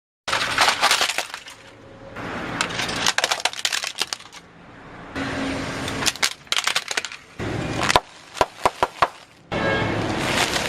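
A run of crunching and cracking as brittle things are crushed and broken, in short segments that change abruptly every few seconds, each a dense crackle of sharp snaps.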